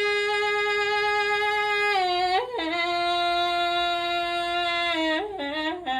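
A solo singing voice holding long, steady notes on the word "rain", stepping down slightly in pitch about two and a half seconds in and holding again, then a few short notes near the end.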